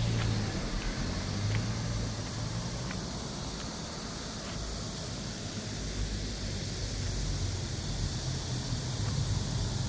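Steady low rumble and hiss of city street ambience, like distant traffic, with a few faint scattered clicks.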